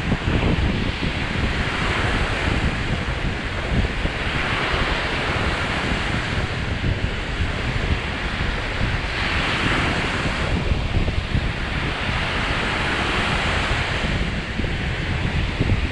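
Lake Michigan waves breaking on the beach, the hiss of surf swelling and falling back every two to three seconds. Wind buffets the microphone with a steady low rumble.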